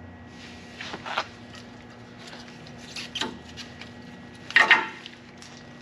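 Brake parts being handled at a wheel with the caliper removed: a handful of short knocks and scrapes, the loudest pair near the end, over a steady low hum.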